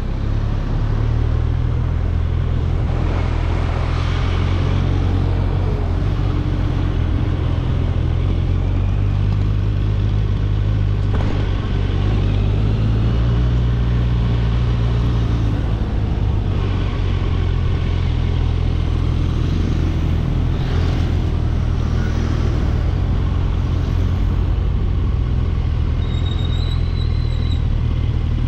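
Kawasaki Ninja 1000SX's inline-four engine running with a steady low rumble.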